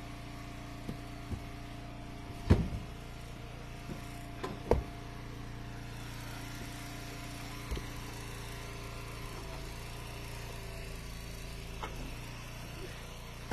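Wood splitter's engine running steadily, with a few sharp wooden knocks of split firewood pieces landing, the loudest about two and a half seconds in.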